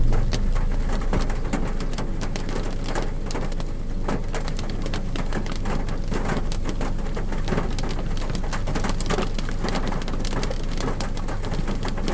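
Rain falling on a car's roof and windows, heard from inside the car: a dense, irregular patter of individual drop hits over a steady hiss and a low hum.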